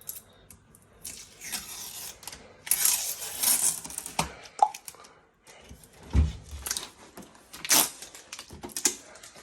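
Protective plastic packaging being torn and peeled off a new fridge freezer, crackling and rustling in irregular bursts, with a dull thump about six seconds in.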